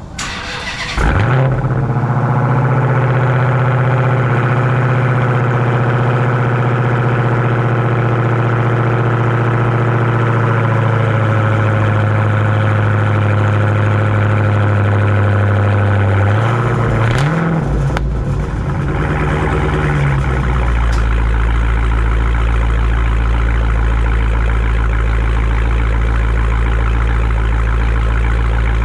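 Dodge Challenger Hellcat's supercharged 6.2-litre Hemi V8 cold-starting: a short crank, then it catches about a second in and holds a loud, high fast idle. Around seventeen seconds in the idle wavers, and by about twenty seconds it settles to a lower, deeper steady idle. It runs through an exhaust with the mid pipes deleted and the stock mufflers still on.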